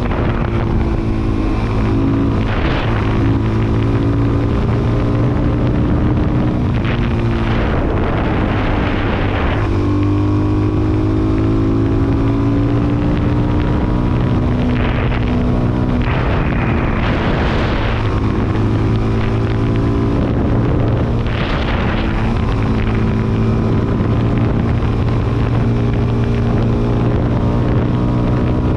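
Suzuki DR-Z400SM's single-cylinder four-stroke engine running under way, its revs falling and rising several times. Gusts of wind noise hit the microphone now and then.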